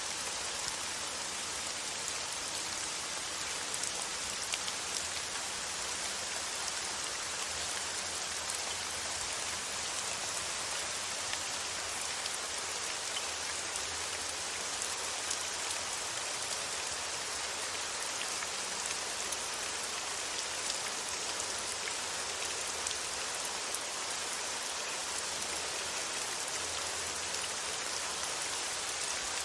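Steady rain falling, an even hiss with scattered light drop ticks, used as white noise.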